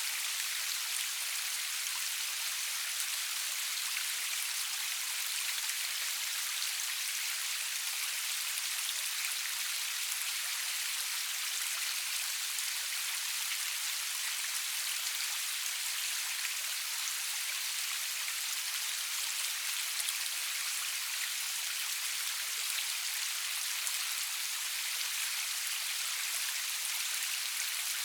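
Steady rain falling: an even, high hiss full of tiny drop ticks, with no thunder and almost no low rumble.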